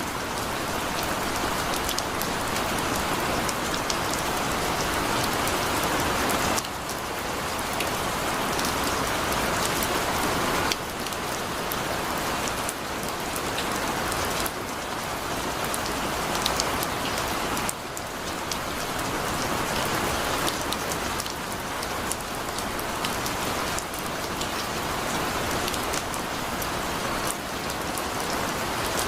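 Heavy rain falling steadily, a dense hiss dotted with sharp individual drop impacts. The level steps up or down abruptly every few seconds.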